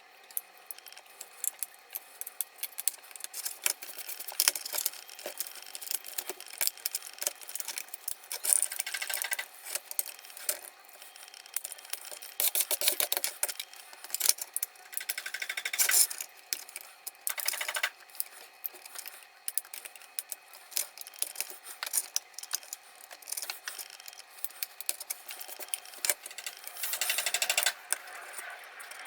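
Small hard parts and tools being handled on a workbench: irregular clicks, taps and light rattles, with several bursts of scraping, the longest about 27 seconds in.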